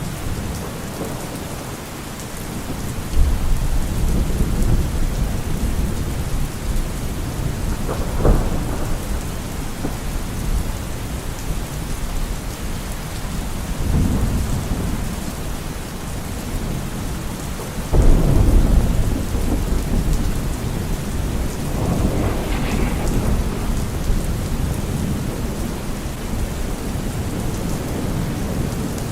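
Steady heavy rain with thunder rolling through it: low rumbles swell and fade several times, with sharper claps about eight seconds in and again near eighteen seconds.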